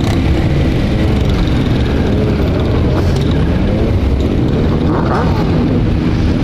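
Motorcycle engines running on the road during a group ride, a steady loud rumble with pitch glides as engines change speed.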